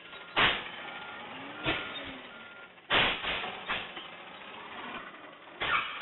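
Garbage truck at work: several short, loud bursts of noise over the running truck, with a faint beep repeating about every 0.7 s in the first half.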